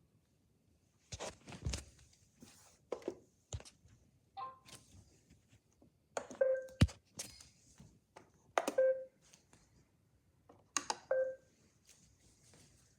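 Clicks and thunks from handling Roomba robot vacuums, with a short electronic beep or chime about four times, spaced a couple of seconds apart, as the robots are switched on.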